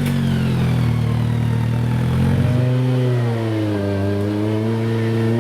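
Off-road vehicle engine running, steady at first. From about halfway its revs rise and fall in slow swells as it is worked.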